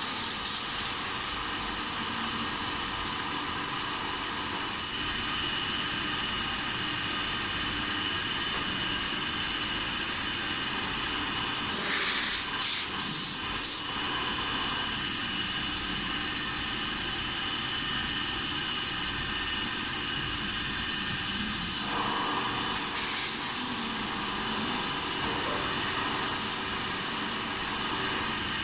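Milling machine running steadily with a mechanical hum of several steady tones, interrupted by loud hissing bursts: a long one at the start, four quick pulses about twelve seconds in, and a longer stretch of hissing near the end.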